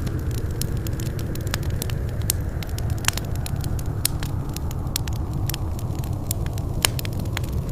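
Wood fire burning with a steady low rumble and frequent sharp, irregular crackles and pops, a few louder than the rest.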